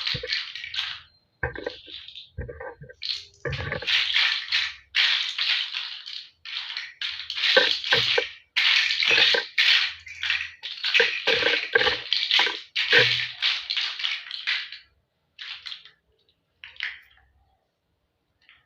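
Plastic toy building blocks being handled and rummaged through: a run of irregular rustling clatters with a few dull knocks, thinning out near the end.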